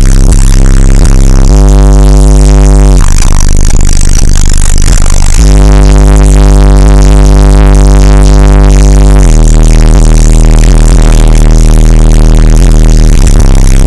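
Bass-heavy electronic music played very loud through a car stereo with an 18-inch Fi BL subwoofer driven by a Sound Stream XXX 4000D amplifier. Long, deep bass notes change every few seconds, and the recording is pushed to full level throughout.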